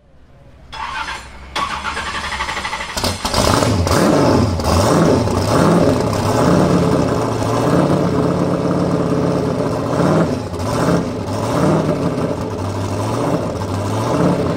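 A drift car's engine starts and is then revved again and again, its pitch rising and falling in quick repeated swings.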